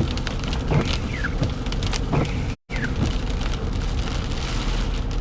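Rain pattering on a car's windshield and roof, heard from inside the moving car over the low hum of engine and road. The sound cuts out completely for a split second about halfway.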